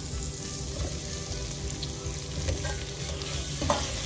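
Onion and spice masala sizzling in hot oil in a cooking pot while boiled potatoes are stirred in, with a few short spoon knocks against the pot.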